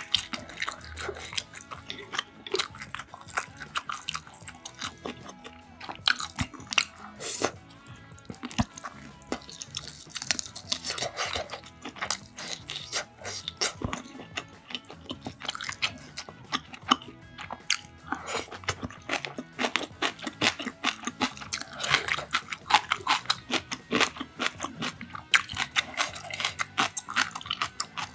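Close-miked eating sounds of braised beef short ribs being bitten off the bone and chewed: many sharp, irregular clicks and wet mouth sounds throughout.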